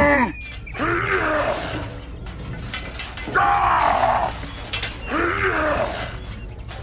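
Three drawn-out straining groans from a voice, each rising then falling in pitch, the middle one the longest.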